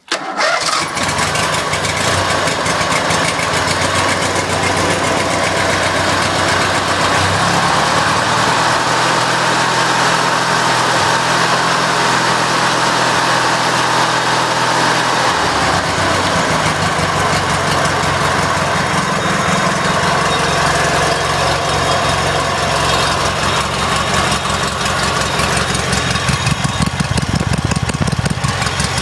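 A 16.5 hp Briggs & Stratton flathead opposed-twin engine starting from cold on heavy choke and a little throttle. It catches almost at once, then runs loudly, with its speed shifting a few times.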